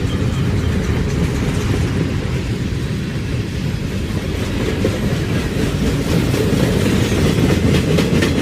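Freight train passing: a steady low rumble of rolling cars, with wheels clacking over rail joints, more distinctly near the end.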